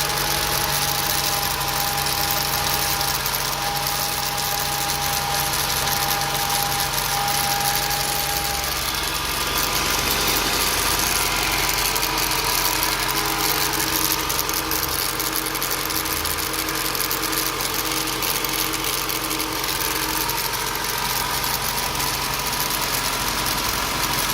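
Engine idling steadily with a rattling noise.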